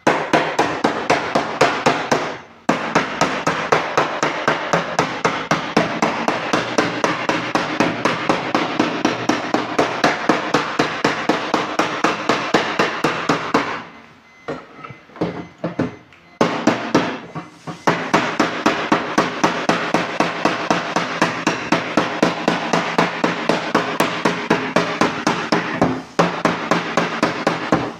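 Hammer beating out dents in a car's sheet-metal body panel: rapid, even strikes, about three a second, stopping briefly twice before picking up again.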